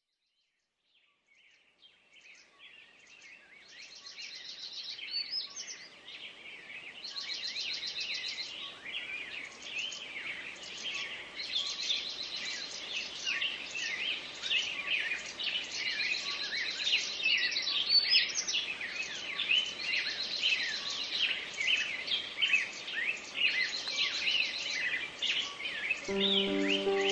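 A chorus of many wild birds singing at once, overlapping chirps and repeated rapid high trills, fading in from silence over the first few seconds and growing fuller. About a second before the end a few steady low musical tones come in under the birdsong.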